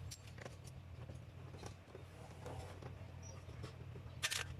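Faint light clicks and taps, with one sharper clatter near the end, over a low steady hum.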